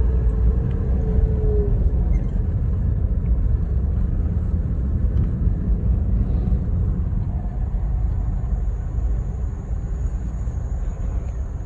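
Car in motion: a steady low rumble of engine and road noise.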